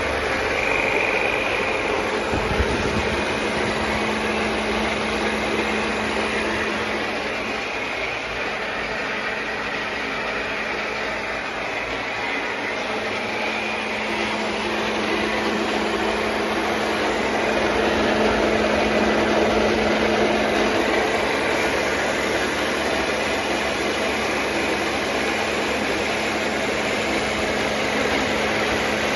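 Speck NP16/15-210 high-pressure plunger pump and its 5.5 kW Nicolini electric motor running under pressure, a steady hum with no surging or jerks. This is the pump unit working evenly with a newly fitted unloader.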